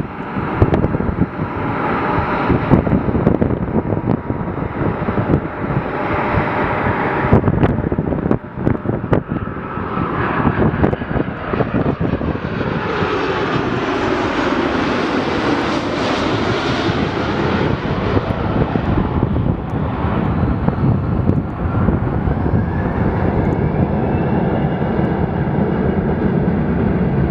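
Airliner jet engines passing close by: a loud, steady rush that swells and widens about halfway through, with a whine rising in pitch near the end.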